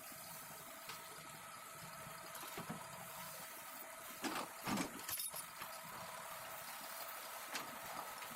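Faint steady running of heavy machinery at a recovery site, with a steady whine over it. A few sharp knocks about four to five seconds in.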